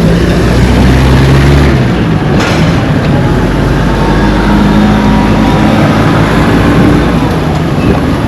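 A vehicle engine running while moving, under loud, steady road and wind noise; the engine note changes about two seconds in.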